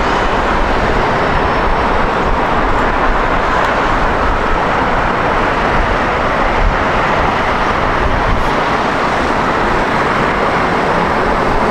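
Jet airliner engines heard as a loud, steady rushing noise that neither builds nor fades.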